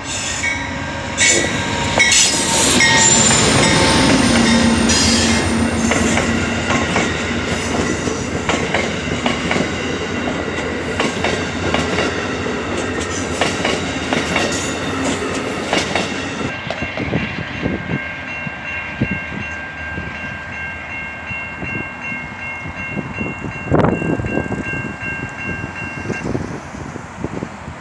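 A train passing over a level crossing, its cars' wheels clattering over the rail joints for about the first sixteen seconds before the rumble dies away. Steady high tones of the crossing warning signal keep ringing and cut off near the end.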